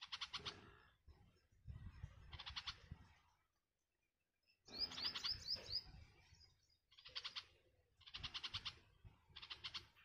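Small songbirds calling in about six short bursts of rapid chattering notes, the one about five seconds in made of quick sliding whistles.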